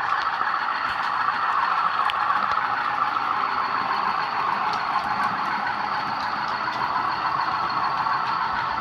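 Bachmann Class 20 model locomotive's DCC sound decoder playing a steady Class 20 diesel engine sound through the model's small onboard speaker, with faint clicks scattered through it.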